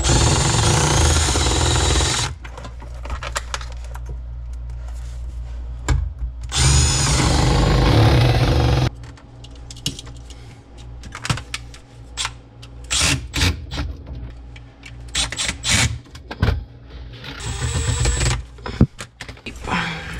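A power drill/driver runs in two spells of about two seconds each, its pitch shifting as the speed changes. After that come scattered clicks and knocks of tools and parts being handled.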